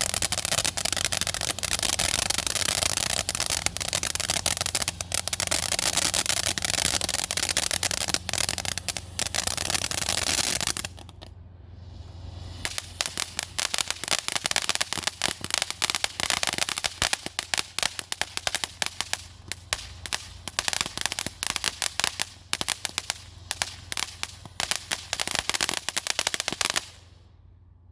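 Consumer firework fountain burning: a dense hissing spray full of crackles, which dips briefly about eleven seconds in and then goes on as fast, crackling pops before stopping shortly before the end.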